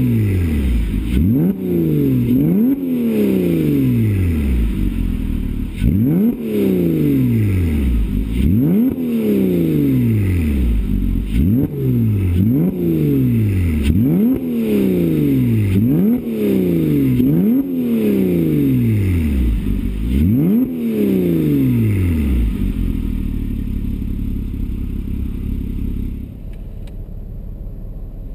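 Porsche Cayman S flat-six engine breathing through an FVD Brombacher aftermarket exhaust, revved in repeated quick throttle blips: each rev climbs fast and falls back more slowly, about a dozen in all. About 22 seconds in the blips stop and the engine settles to a steady idle.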